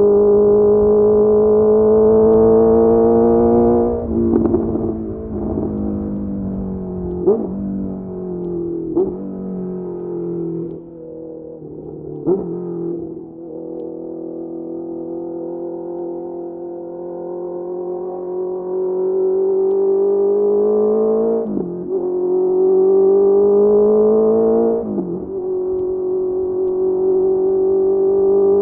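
Honda CBR650R's inline-four engine through a Mivv MK3 exhaust, heard from on the bike. It pulls up through the revs, then drops away with a run of short, sharp throttle blips on the downshifts as the bike slows. After cruising at low revs it accelerates hard again, with two upshifts near the end.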